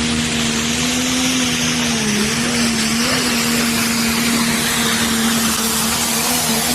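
Pro stock pulling tractor's single-turbo diesel engine running hard and steady under full load on the pull, its note dipping briefly about two seconds in, with a high whine above it.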